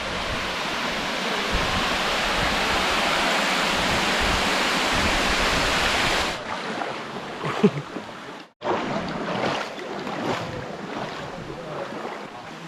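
Steady rushing of a waterfall or stream, loud for about six seconds, then cutting abruptly to a quieter water rush with a brief dropout partway through.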